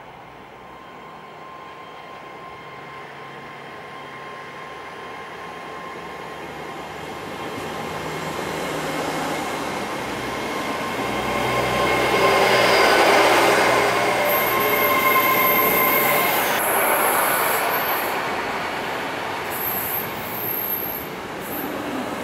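A GWR Intercity Express Train running past close by, its running noise building to a peak as the carriages go by and then easing slightly. Steady whining tones run under it, and a thin high wheel squeal comes in over the second half.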